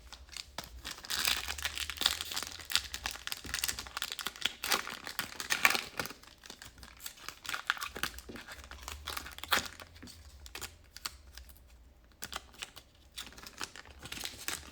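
Trading-card pack wrapper crinkling and rustling as the cards are handled, with many small irregular clicks and crackles.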